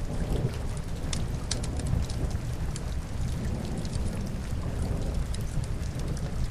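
Ambient soundscape of steady rain with a low rumble, dotted with scattered sharp crackles from burning logs in a fireplace.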